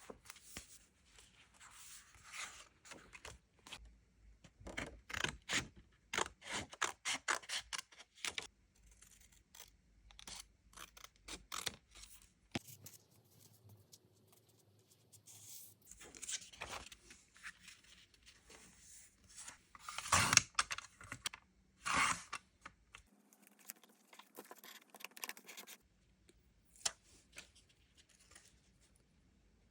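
Desk crafting sounds of paper and stickers being handled for diary decorating: a run of quick clicks and scratches, then two louder scratchy bursts about two-thirds of the way through.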